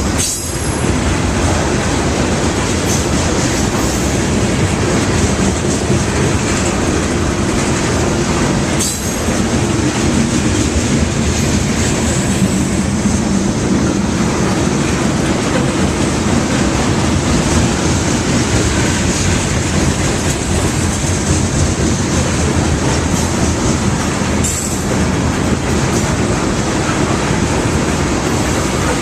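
Loaded crude oil tank cars of a freight train rolling past, with a loud, steady rumble of steel wheels on rail.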